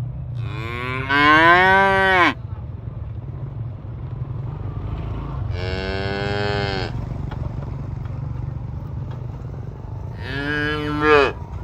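Cattle mooing: three long calls a few seconds apart, each rising then falling in pitch, the first the longest. A steady low rumble lies beneath them.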